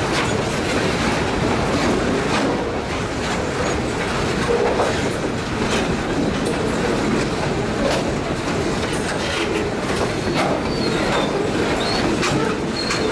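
Freight cars rolling past at close range: a steady rumble of steel wheels on rail, with repeated clicking as the wheels cross rail joints. A few brief high squeals come near the end.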